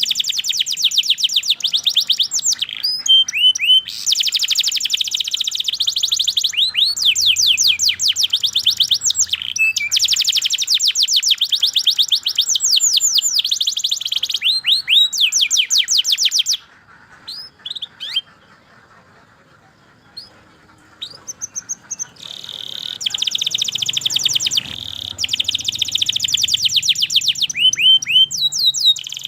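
Domestic canary singing long, fast trills of rapidly repeated notes mixed with sweeping whistled notes. About halfway through it breaks off for several seconds, giving only a few scattered single notes, then resumes the rapid trilling.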